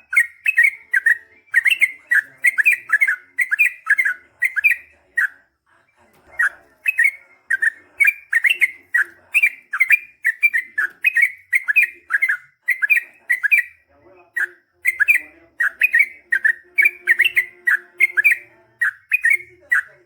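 Yellow-vented bulbul (trucukan) singing in long, fast runs of chirping notes, about three a second, breaking off briefly about five seconds in and again around fourteen seconds.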